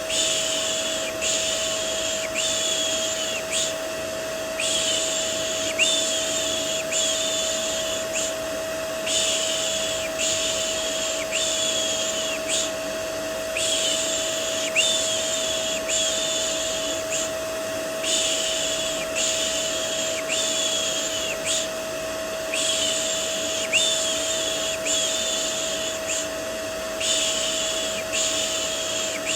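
Vacuum cleaner running steadily with a constant hum, mixed with a looped 'shh' shushing sound for settling a baby. The shushes come in runs, each a short hiss, with a brief pause about every four and a half seconds.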